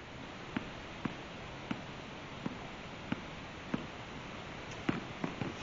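A basketball being dribbled: sharp bounces about every two-thirds of a second, with a few quicker bounces near the end, over a steady background hiss.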